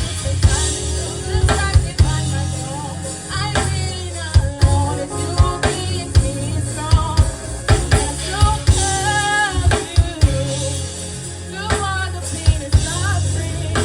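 Live gospel band playing: frequent sharp drum-kit hits over a heavy, steady bass line, with a wavering sung melody on top.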